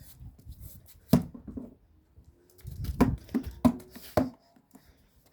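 A basketball bouncing on hard ground: one bounce about a second in, then a quick run of four bounces.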